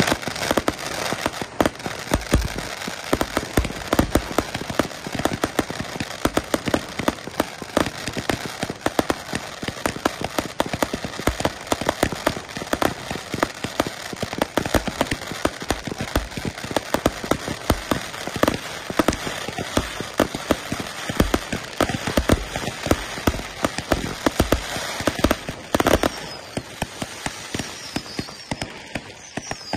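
Fireworks display: a dense, continuous crackling of many small bursts with louder bangs scattered through it, and a few thin whistles near the end.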